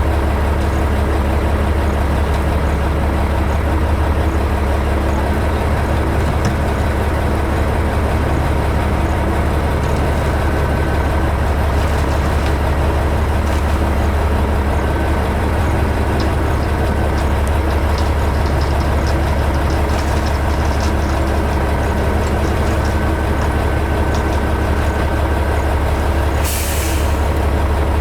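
Heavy construction vehicle's diesel engine running steadily with a low drone, with a short air-brake hiss near the end.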